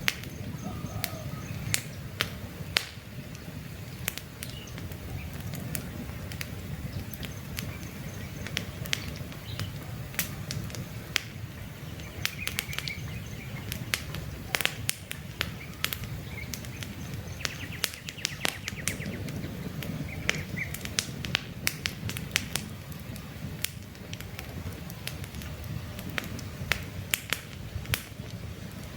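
Wood campfire crackling, with frequent sharp snaps and pops over a low steady noise of burning. Faint bird chirps come through now and then.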